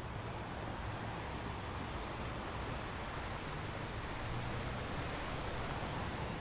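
Caribbean Sea surf washing steadily onto a beach, a continuous wash of waves with a deep rumble.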